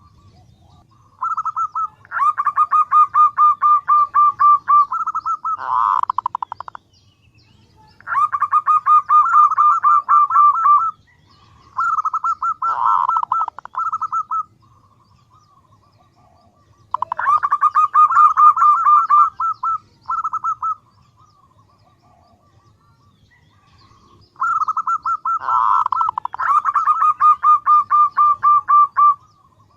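Female zebra dove (perkutut) calling, a lure call to draw in males. It comes in five bursts of a few seconds each, every burst a fast run of pulsing coos, with short pauses between.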